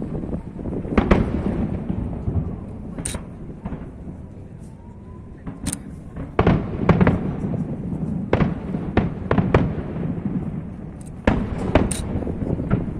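Aerial fireworks shells bursting in an irregular string of sharp bangs over a rolling low rumble of echoes. The bursts thin out for a moment about four seconds in, then come thicker and louder.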